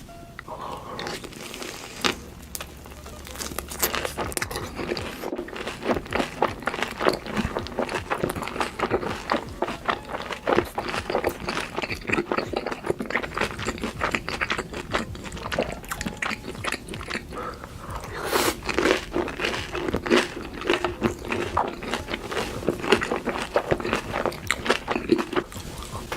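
Close-miked mukbang eating: a person biting into and chewing crunchy food, giving a dense, continuous run of crisp crunches and crackles.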